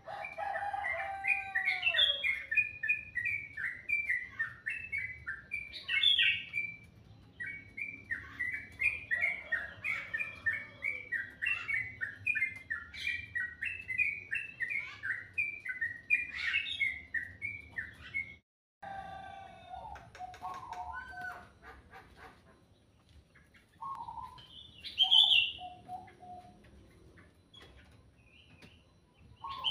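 Songbird singing a long, rapid, chattering song of quick rising and falling notes. After a sudden brief break about eighteen seconds in, sparser and lower whistled calls follow, with one short loud high call near the end.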